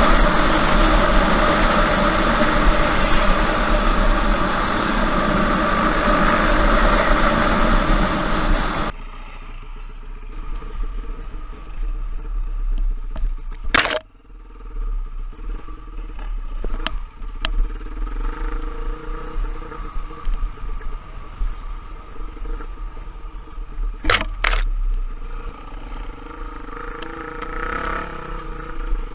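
Off-road trail motorcycle riding: its engine runs hard under a loud rush of noise, which cuts off suddenly about nine seconds in. A quieter engine sound follows, with a few sharp clicks.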